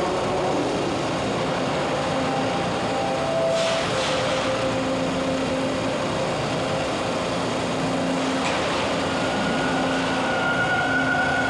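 Toronto subway (TTC) train running through the station, a steady rumble with a steady whining tone; a higher whine comes in near the end.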